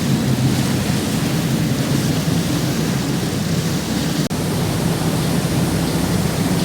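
A boat under way: a steady low engine drone under a constant rush of wind and water noise, with a momentary dropout about four seconds in.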